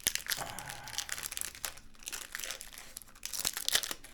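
A candy bar wrapper crinkling and crackling in irregular bursts as it is handled and unwrapped, loudest about three and a half seconds in.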